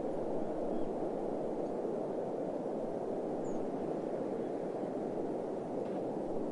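Steady, even rushing noise of a desert ambience track, deep and without any pattern or change.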